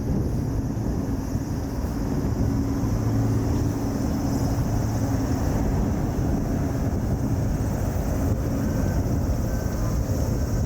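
Steady low engine drone, unchanging in level.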